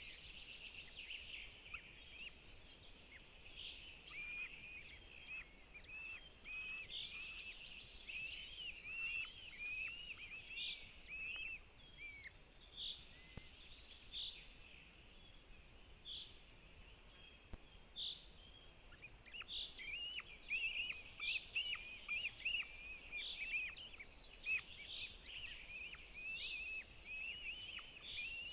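Birds calling: a steady stream of short, high chirps and hooked notes, many overlapping, over a faint outdoor hiss.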